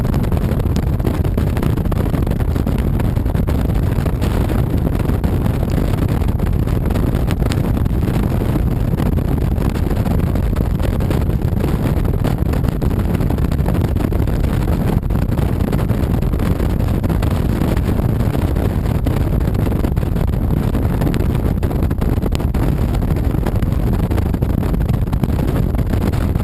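Honda VTX 1300C's V-twin engine running steadily while riding, mixed with wind rush and wet-road noise at an even level throughout.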